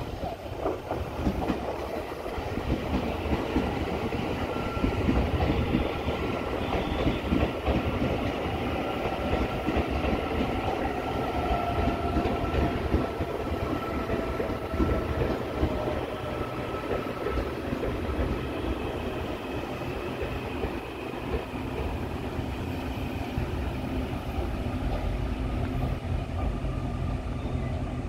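Taiwan Railway electric multiple unit pulling into a station: wheels rumbling and clattering over the rail joints, with a faint whine falling in pitch midway as the train slows.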